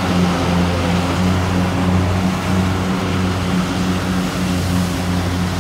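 Kubota DC70 rice combine harvester running steadily under load, its diesel engine giving an even low drone that holds one pitch, over the noise of the cutting and threshing machinery.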